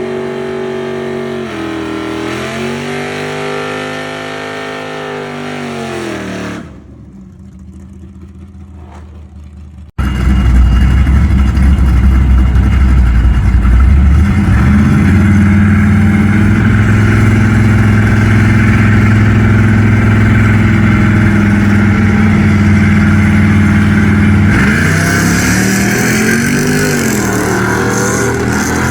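Small-block Chevy V8 engine revving and running, heard in cut-together clips: the revs dip and climb for the first several seconds, then after a sudden cut it runs much louder and steadier, with a brief rise and fall in revs near the end.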